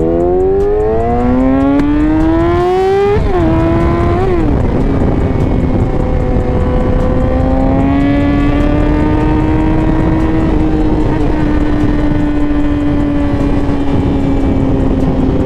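2017 Yamaha R6's 600cc inline-four engine accelerating hard, its pitch climbing steeply then dropping twice in quick upshifts a few seconds in. It then runs at a steady cruising speed, pitch drifting gently, with wind rushing over the microphone.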